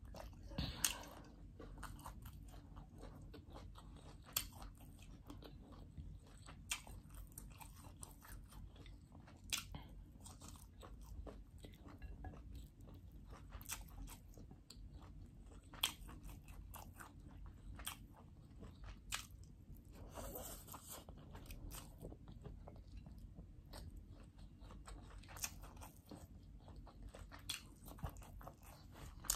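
A person chewing mouthfuls of chicken fried rice eaten by hand, close to the microphone: wet chewing with irregular sharp crunches and mouth clicks.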